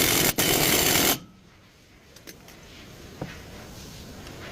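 Power tool running in a short burst, with a brief break about a third of a second in. It cuts off suddenly a little over a second in. Then come a few faint metallic clicks.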